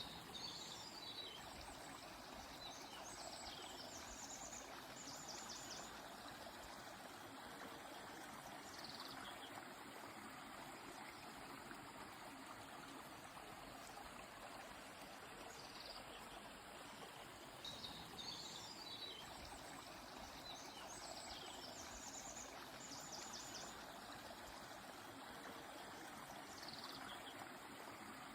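A river or stream flowing steadily, with short high bird calls above it: a quick falling series of chirps near the start and again about two-thirds of the way through, and other brief chirps between.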